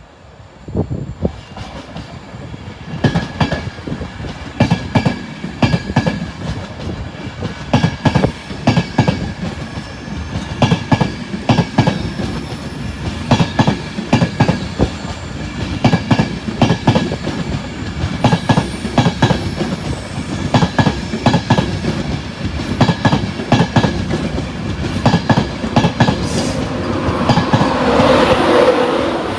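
A train running past, its wheels clicking over rail joints and pointwork in a quick, uneven clatter, with a faint steady whine. The sound swells a little before the end.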